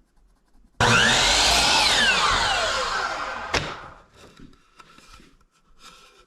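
An electric woodworking power tool starts suddenly. Its motor whine rises for about a second and then winds down over the next two seconds as it is switched off. A sharp knock comes near the end of the spin-down.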